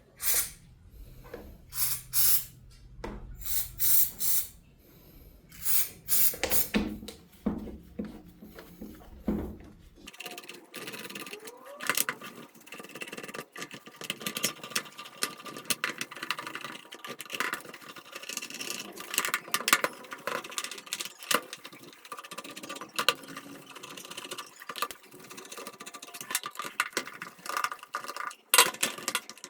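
Workshop handling and tool noises: separate sharp knocks and clicks at first, then from about ten seconds in a dense run of rapid clicking and rattling.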